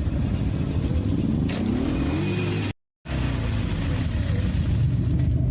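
Motorcycle engine running, rising in pitch as it accelerates over a second or so, then cutting out completely for a split second before running steadily again.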